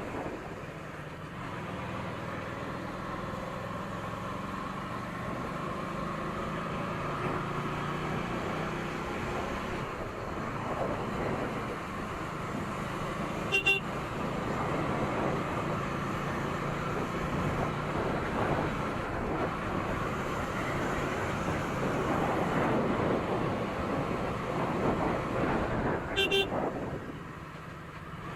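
KTM Duke 200 motorcycle's single-cylinder engine running on the road with road noise, its engine note shifting with speed. A vehicle horn toots briefly about halfway through and again near the end.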